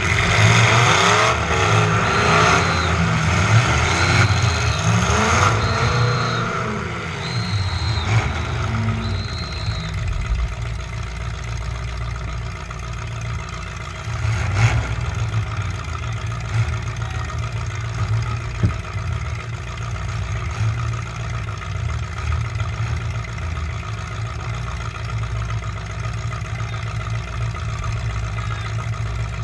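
Demolition derby truck engine revving hard, its pitch rising and falling, with a row of five short high beeps for about the first ten seconds. It then runs at a steadier, lower speed, with a single sharp knock about fifteen seconds in.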